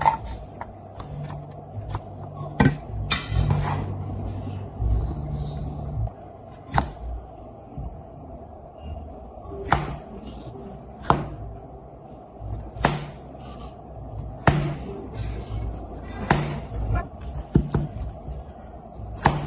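A series of sharp knocks and clicks, irregular at first, then about one every second and a half from about halfway in, over a low steady hum.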